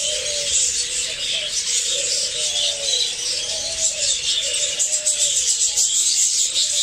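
A flock of parrots chattering and chirping together in a dense, continuous chorus, with a lower call repeating about once a second beneath it.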